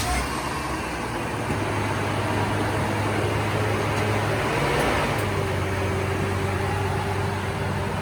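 Steady motor-vehicle engine noise: a low hum under an even rush of sound, starting suddenly at the opening.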